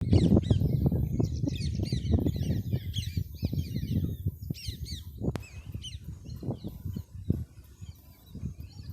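Parrot chirping and squawking in many short, quick calls, over low rustling and thumping that is loudest in the first half and then fades.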